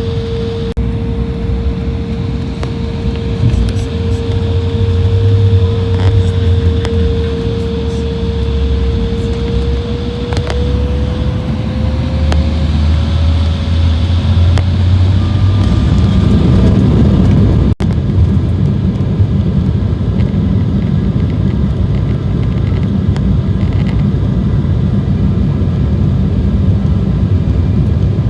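Cabin noise of a KLM Cityhopper regional jet: a steady low rumble with an engine whine that begins rising in pitch about ten seconds in, then a louder, fuller rumble from about sixteen seconds. This is typical of the turbofans spooling up to takeoff thrust.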